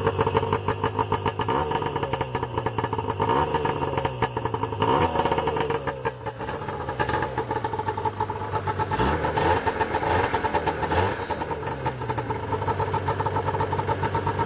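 Arctic Cat Cougar 550 snowmobile's two-stroke twin, fresh from a top-end rebuild with a new cylinder and pistons, running and being revved several times, the pitch rising and falling with each throttle blip.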